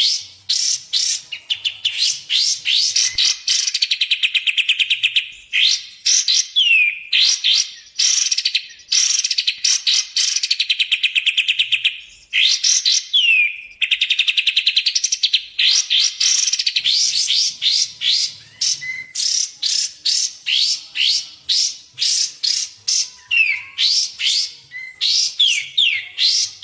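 Recorded songbird song: an unbroken stream of short, fast chirps with longer fine trills about four, nine and thirteen seconds in, and a few sharp downward slurred notes.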